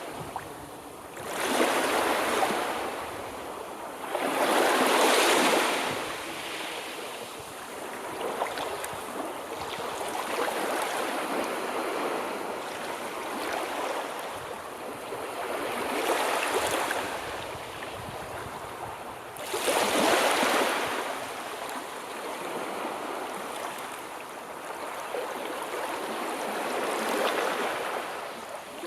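Sea surf: waves breaking with a continuous hiss of wash between them. Three louder breakers come near the start, a few seconds later, and about two-thirds of the way through.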